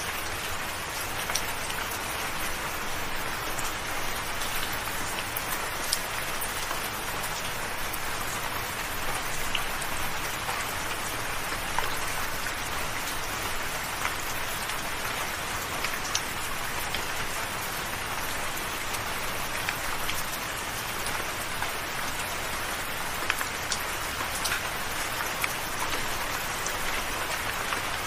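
Soft rain falling steadily: an even hiss with scattered individual drops ticking sharply here and there.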